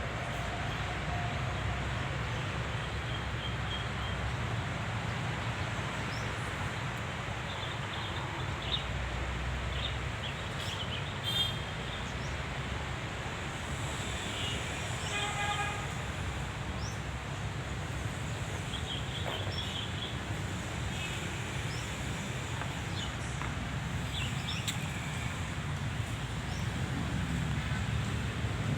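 Steady outdoor background rumble, like distant traffic, with scattered short high chirps and a brief call about fifteen seconds in.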